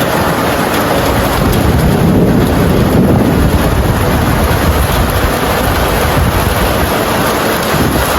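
Kalbaishakhi storm: strong gusting wind with rain, the wind buffeting the microphone as a loud, steady low rumble under a hiss. The rumble swells a little about two to three seconds in.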